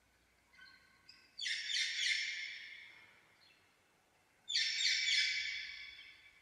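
Indian parakeet calling in two loud bouts of rapid, harsh calls, the first about a second and a half in and the second about four and a half seconds in, each fading out over a second or so, after a couple of faint short calls.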